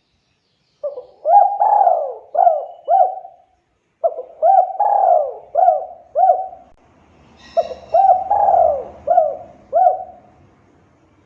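Spotted dove (tekukur) cooing: three phrases of about five coos each, a second or so apart.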